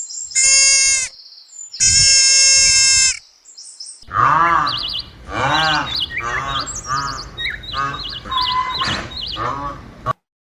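A sheep gives two long, high bleats. Then a second recording follows: an animal makes a run of short, lower rising-and-falling calls, about one or two a second, while small birds chirp over them. It cuts off just before the end.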